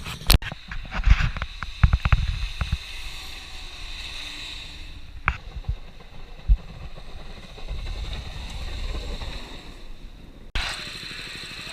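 Mini bike engine running, heard muffled through a waterproof camera case, with several sharp knocks and bumps in the first couple of seconds and a few more midway. The sound changes suddenly near the end.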